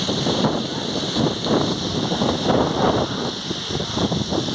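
Heavy rain pouring steadily, with irregular surges of wind noise on the microphone.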